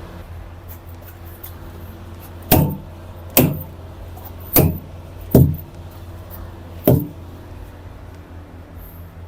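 A steady low hum with five loud, sharp clunks, each trailing off in a short ring that falls in pitch.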